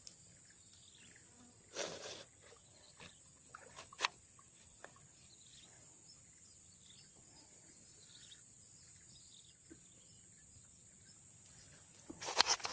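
Steady high-pitched insect chirring, with a few brief rustles and a sharp click, and a louder burst of rustling and knocks near the end.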